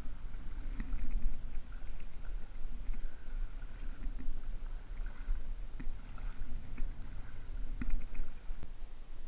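Water sloshing and lapping, with a steady low rumble underneath and a few faint clicks.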